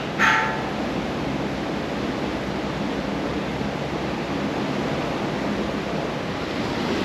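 Steady rushing noise of a moving train, with a brief high pitched tone just after the start.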